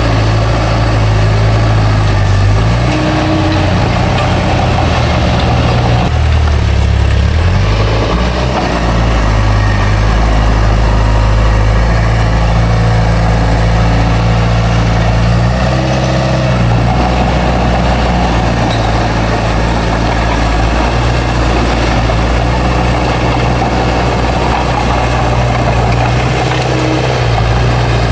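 Heavy diesel engine of a bulldozer running under load, steady and loud, its pitch and pull shifting several times as it works.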